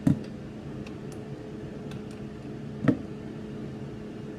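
Two sharp metallic clicks about three seconds apart as a 14 mm Allen socket is seated in the Ducati 998's oil screen filter plug, over a steady low hum.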